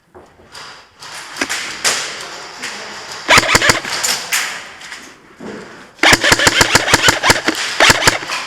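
Airsoft electric guns firing rapid full-auto bursts: a short burst about a third of the way in and a longer one from about six seconds on, with scattered clatter before them.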